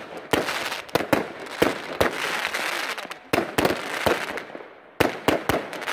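Aerial fireworks bursting overhead: about a dozen sharp bangs at uneven intervals, with crackling between them.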